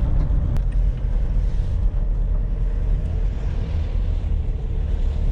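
Van engine running with a steady low drone.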